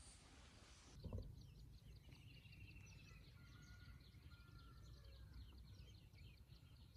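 Faint outdoor ambience: many short bird chirps and a brief trill over a low rumble, with a soft thump about a second in.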